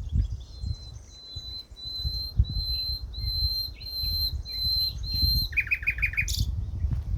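A songbird singing a row of repeated high, clear whistled notes, then a quick run of lower notes near the end, over a steady low rumble.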